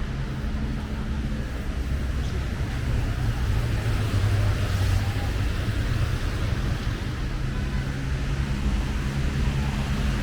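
City street traffic: car engines running with a steady low hum, over a hiss of tyres on wet asphalt. The engine sound swells about halfway through as a vehicle comes closer.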